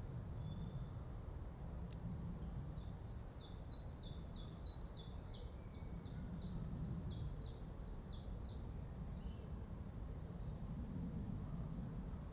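Forest ambience: a steady low wind rumble, with a songbird singing a long series of high, falling notes at about three a second, from about three to nine seconds in.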